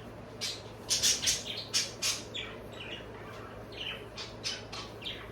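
Pet birds chirping and squawking indoors: short, high calls several a second, some falling in pitch.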